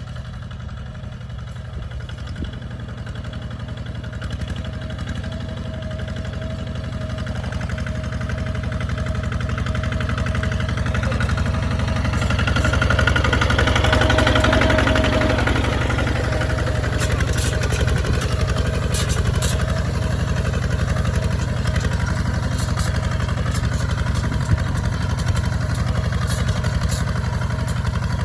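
Kubota RT 155 DI single-cylinder diesel engine running steadily under ploughing load on a tractor. It grows louder toward the middle and then holds level, with a few light clicks in the second half.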